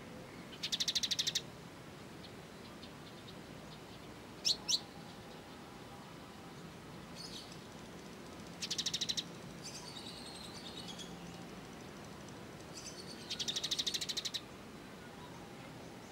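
Small songbird calling: three short, rapid, high trills, a quick pair of sharp falling notes about four and a half seconds in, and softer twittering in between.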